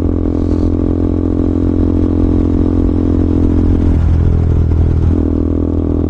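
KTM Duke 200's single-cylinder engine running steadily under way, its note dipping briefly twice near the end.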